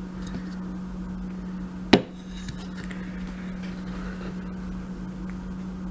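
A single sharp knock of a hard object about two seconds in, over a steady low hum.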